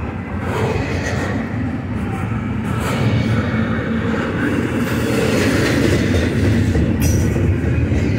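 Double-stack intermodal well cars rolling past close by: a steady, loud rumble of steel wheels on rail, with a sharp click about seven seconds in.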